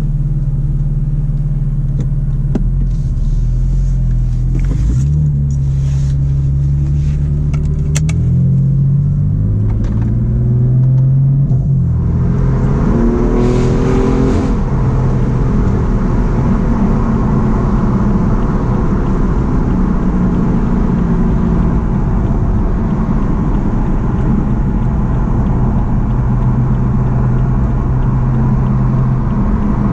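BMW M4's twin-turbo straight-six breathing through an Akrapovic full exhaust system, running low and steady, then climbing in pitch in steps from about five seconds in before settling into a steady cruise. Tyre and road noise fill in behind it from about halfway through.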